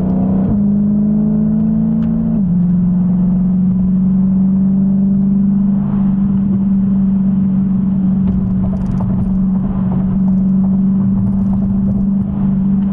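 Car engine running at a steady cruise, heard from inside the cabin as a loud, even drone. Its pitch steps down a little about half a second in and again about two and a half seconds in, then holds steady.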